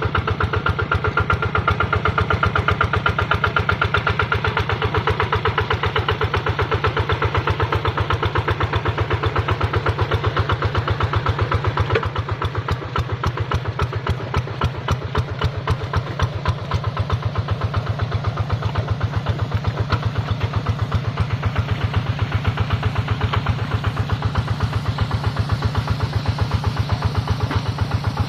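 Kubota RD110 single-cylinder horizontal diesel engine on a hand tractor running steadily, with a rapid, even train of firing beats. It eases slightly in level for a few seconds about halfway through.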